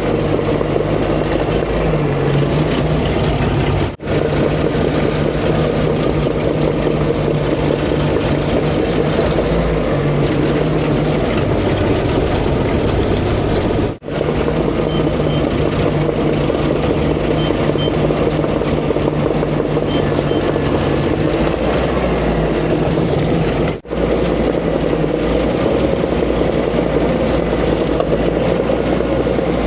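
A heavy diesel earthmoving machine's engine running steadily under work. The sound drops out for an instant three times, about ten seconds apart.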